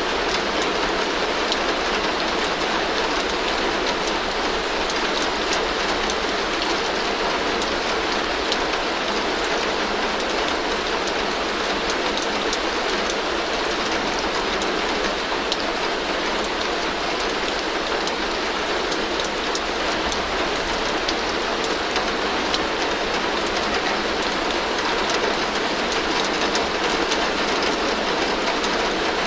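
Heavy rain falling steadily on a tin roof: a dense, even hiss dotted with the ticks of single drops striking metal, over a low rumble.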